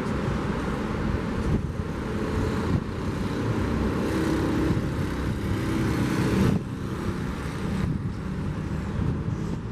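A vehicle passing along the seafront road over the steady wash of the sea. Its engine hum builds to its loudest about two-thirds of the way through, then drops away sharply.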